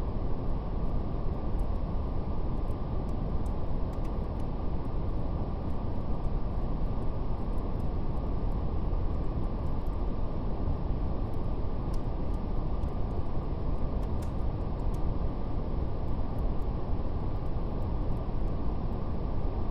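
Steady brown noise, a deep even rumbling hiss cut off above the low-mid range, with faint scattered crackles of a fire over it.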